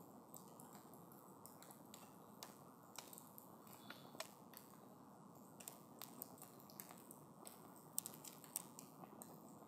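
Wood campfire crackling softly: scattered sharp crackles over a low steady hiss, the two loudest about eight seconds in.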